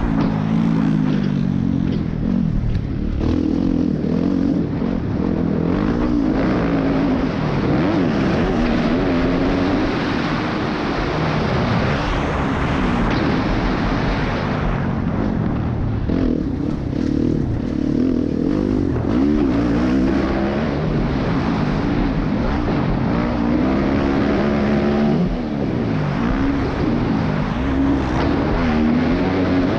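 Dirt bike engine revving up and down over and over while being ridden hard, with the pitch climbing and dropping as the rider opens and closes the throttle and shifts, over a steady rush of wind and ground noise.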